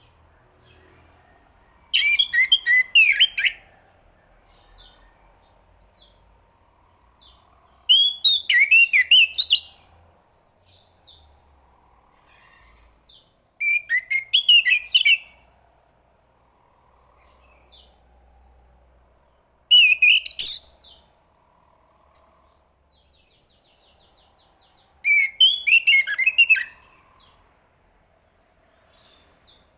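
Chestnut-capped thrush singing: five short, quick warbled phrases about six seconds apart, with faint soft notes in between.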